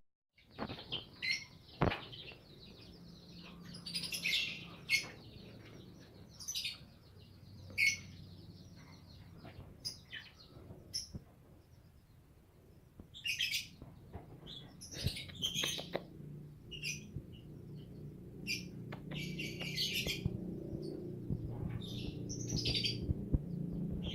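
Small songbirds chirping in short, repeated bursts of high calls.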